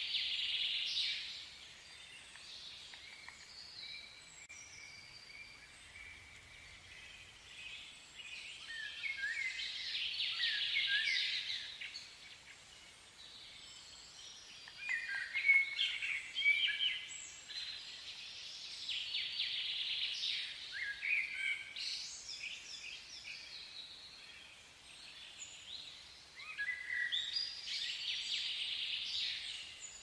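Small birds chirping and warbling in repeated bouts of a few seconds each, with quieter gaps between them, over a faint steady outdoor hiss.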